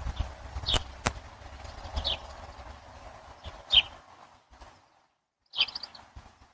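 A bird chirping: short high calls that drop in pitch, repeated every second or two, over low rumbling and a few clicks that die away about four seconds in.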